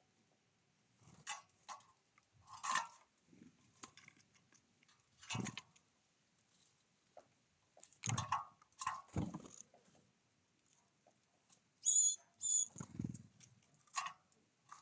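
Birds at a feeder: scattered taps, knocks and rustles, with two short high chirps about twelve seconds in.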